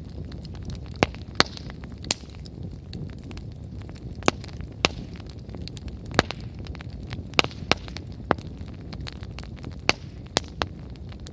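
Wood fire burning strongly: a low steady rush of flame with irregular sharp crackles and pops from the burning firewood.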